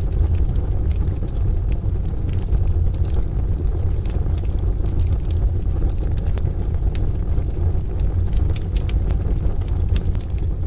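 Crackling wood fire in a stove, with sharp irregular pops scattered throughout, over a steady deep rumble of rain and distant thunder.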